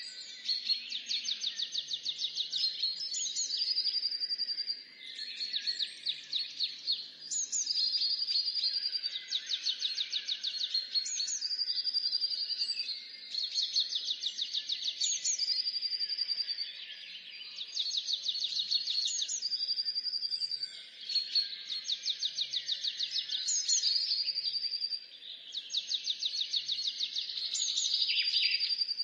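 Songbirds singing: rapid high trills with short held whistled notes, the phrases repeating every couple of seconds.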